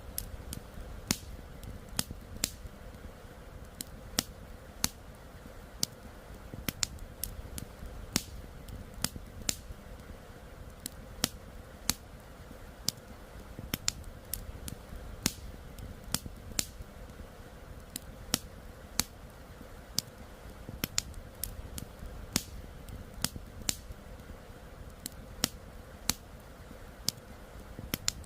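Campfire crackling: irregular sharp pops and snaps of burning wood, several a second, over a steady low rushing bed that fits the river flowing.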